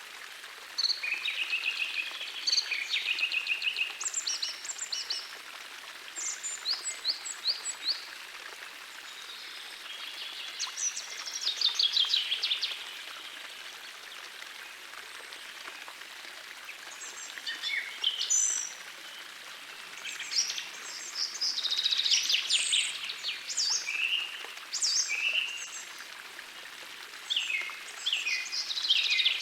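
Several songbirds singing in phrases of quick trills and chirps, over the steady rush of a small forest stream.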